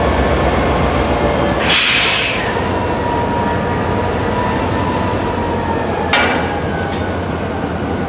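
Freight cars moving through a rail yard, their wheels giving a thin, steady high squeal, with a low locomotive rumble that fades about two seconds in. A loud burst of hiss comes about two seconds in, and a short sharp clank-like burst about six seconds in.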